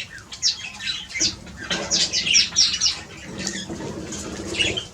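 Wild birds squawking and chirping, many short, high calls overlapping one another, with a few wing flutters.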